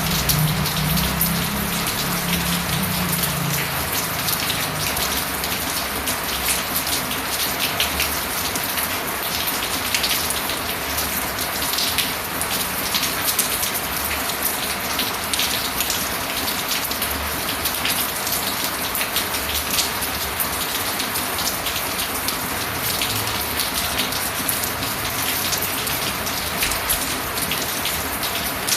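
Steady rain falling, a dense patter of drops on a surface. A low hum fades away in the first few seconds.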